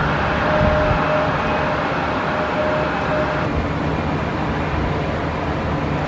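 Steady jet aircraft noise at an airport: a broad rumble with a faint thin whine, the higher part of the noise dropping off about three and a half seconds in.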